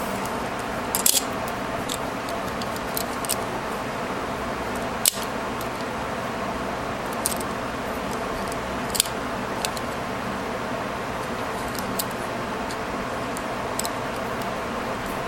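Small sharp clicks and taps at irregular intervals, the loudest about five seconds in, over a steady hiss: a metal staple remover being handled.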